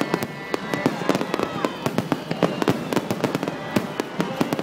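Fireworks going off in a dense, irregular barrage of sharp bangs and crackles, several a second.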